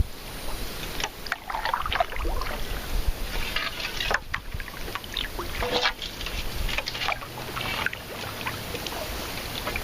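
Kayak paddles dipping and splashing in the water, several sudden splashes over a steady watery wash.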